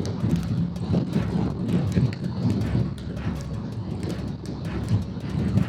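Motorcycle engine running on the open road, with wind rushing over the microphone.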